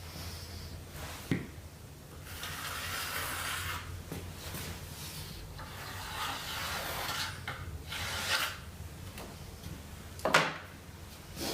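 Hand tool rubbing over wood in long rasping strokes, with a sharp knock about a second in and a louder one near the end.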